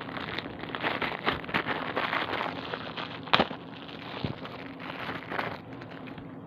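Toy packaging being handled: a dense run of small crackles and clicks, with one sharper click about three and a half seconds in.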